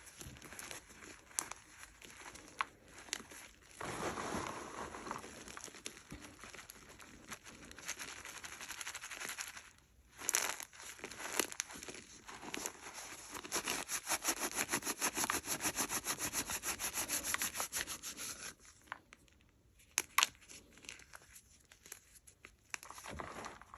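Blocks of gym chalk being crunched and crumbled between the fingers, with irregular crackles and sharp snaps. A fast, even run of small crunches comes in the middle, then a few sharp snaps near the end.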